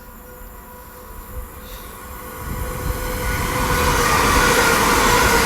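GWR Class 387 electric multiple unit passing through at speed, growing louder from about halfway in as it approaches.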